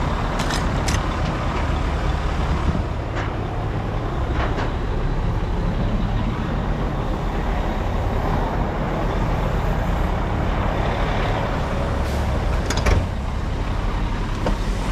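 Truck engine running steadily with a low rumble. A few short knocks and clanks come through it, the loudest near the end.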